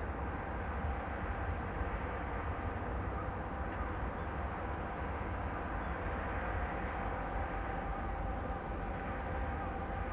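Distant airliner jet engines running steadily, with a faint steady whine above low wind rumble on the microphone.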